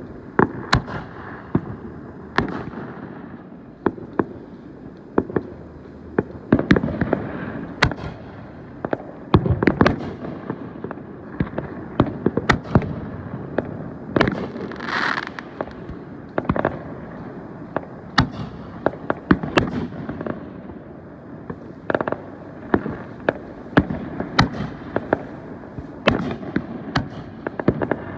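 Fireworks going off in quick, irregular succession: many sharp bangs and booms over a rumbling bed, with a brief hissing rush about halfway through.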